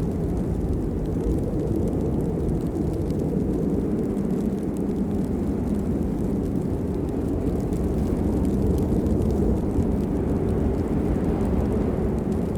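Steady rain falling, a dense low-pitched wash of noise with faint scattered ticks of individual drops.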